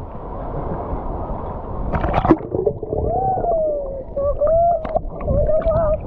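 Sea water sloshing and lapping over a camera held at the waterline, with a sharp splash about two seconds in. From about three seconds on, a drawn-out voice, muffled and warped by the water, hums or calls with slowly gliding pitch.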